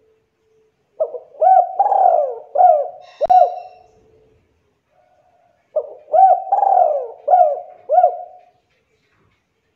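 Spotted dove (tekukur) cooing: two phrases of several low, repeated coo notes, separated by a short pause. A faint click sounds partway through the first phrase.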